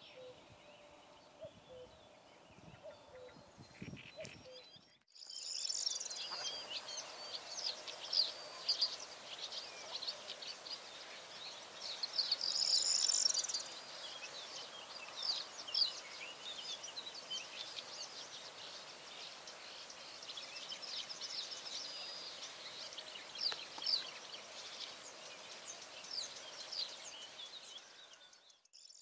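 Small birds chirping and singing many short, high notes over a steady background hiss, beginning sharply about five seconds in after a quieter stretch.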